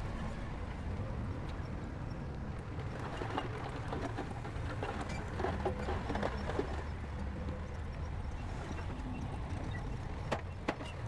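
Bulldozer's diesel engine running steadily, with metallic clanks from its tracks and blade in the middle and two sharp clacks near the end.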